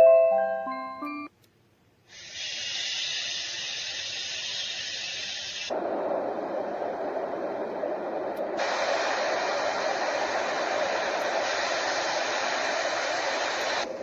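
A few notes of a tinkling melody end, and after a short pause a pocket white noise machine plays steady noise. It starts as a thin high hiss, changes about three and a half seconds later to a fuller, deeper rushing noise, and turns brighter again about three seconds after that, as it steps through its sound settings.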